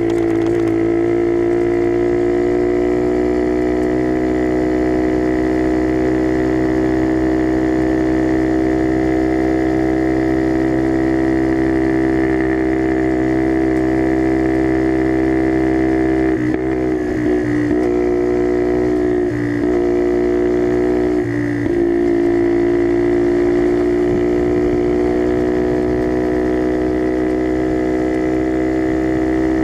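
Skyteam Dax's single-cylinder four-stroke engine running at a steady cruising pace through a custom NHRC carbon exhaust, a constant-pitched drone. Around the middle it falls briefly in pitch and level three times, as the throttle eases off and picks up again.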